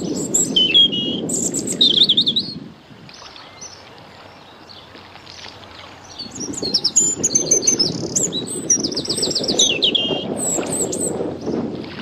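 Birds calling: sharp high chirps and short trills in the first two seconds, then a livelier run of calls and fast trills from about halfway until near the end. A low rushing noise lies under the calls in the same stretches.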